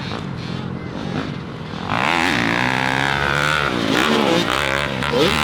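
Dirt bike engines revving hard on a motocross track. About two seconds in, one bike gets louder and its pitch drops steadily as it goes by.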